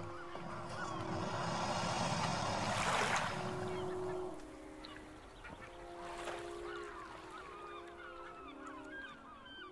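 Low held honking notes stepping from pitch to pitch, with many short chirps over them and a brief rush of noise about three seconds in.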